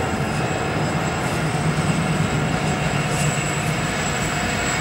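Loaded grain hopper wagons of a freight train rolling past, giving a steady rumble of wheels on rail.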